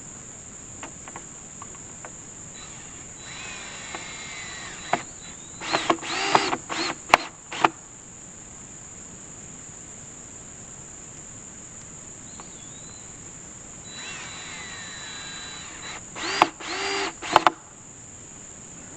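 Cordless drill driving screws into a board, twice: each time the motor whines up, then runs in several short, loud spurts as the screw seats.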